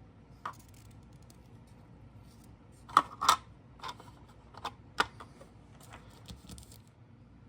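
Scattered light clicks and taps of plastic model-kit parts and packaging being handled and set down, the loudest a pair of sharp clicks about three seconds in.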